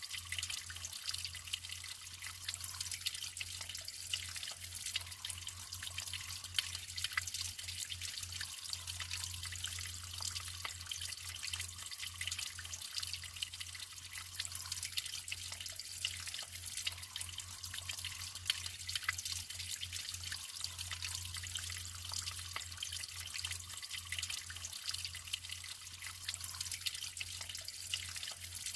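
Naturally flowing water trickling and splashing steadily, with small drips and plops standing out here and there.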